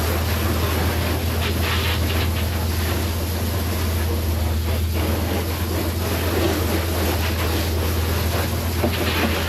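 An engine running steadily, a constant low drone under a noisy hiss.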